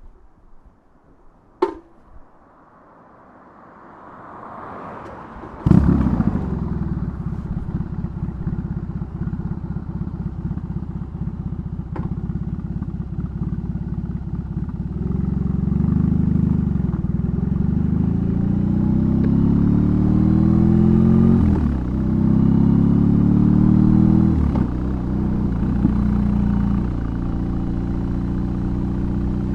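BMW R18's 1,802 cc boxer twin on a custom exhaust: a sharp click, the starter cranking, and the engine catching about six seconds in with a loud bark, then running at idle. From about halfway it revs up and pulls away, the pitch rising in sweeps with short dips at each gear change.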